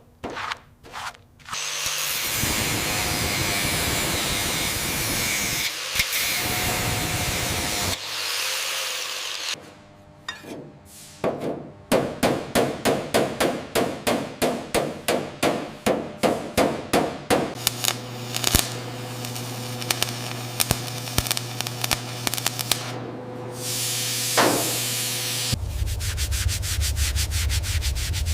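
A string of workshop tool sounds: a power tool running steadily for several seconds, then rhythmic scraping strokes at about two or three a second, then a steady machine hum.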